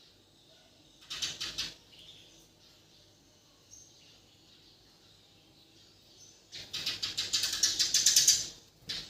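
Bornean white-rumped shama (murai batu) singing two quick, high-pitched chattering phrases of rapidly repeated notes: a short one about a second in, and a longer, louder one starting after about six seconds.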